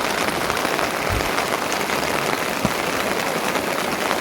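Steady rain falling, an even hiss of many drops, with a soft low knock about a second in.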